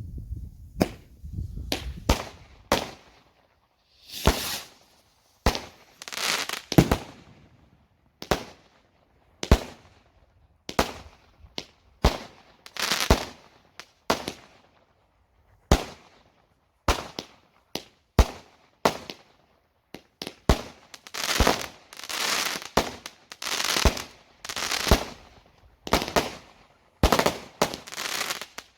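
Consumer fireworks going off in rapid succession: sharp bangs about once a second, many followed by a longer rush of noise.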